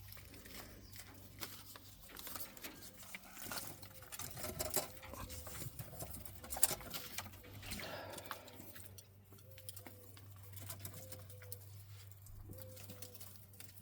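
Quail moving about an aviary floor: a scatter of light pecking, scratching and foot-patter clicks, with a few soft short calls repeating in the second half.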